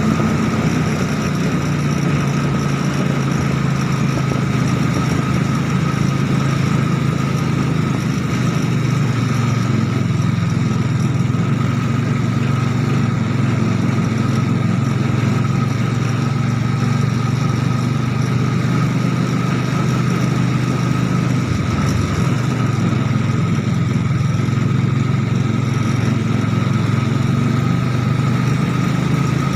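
Engine of a homemade mini Jeep, a three-wheeled motorcycle's engine, running steadily, with a brief change in pitch about two-thirds of the way through.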